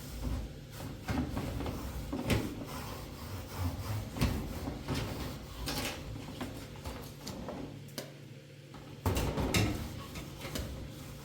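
Irregular knocks, scrapes and rubbing, as of objects being handled, over a steady low hum.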